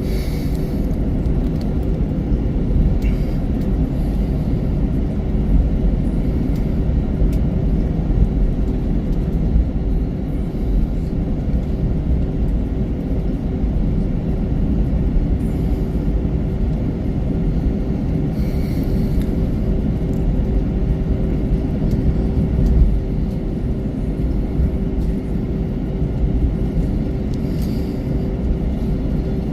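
Cabin noise inside an Airbus A321-200 on the ground: a steady low rumble with a constant hum, engines running with no change in power.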